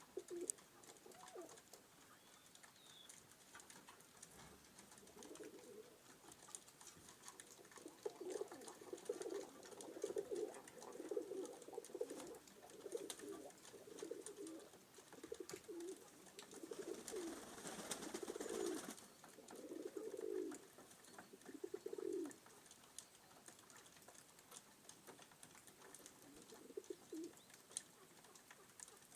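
Pigeons cooing over and over, low coos following one another for about fifteen seconds and then stopping, with faint light ticks throughout of beaks pecking at the scattered feed. A brief rush of noise, about two seconds long, comes about two-thirds of the way in.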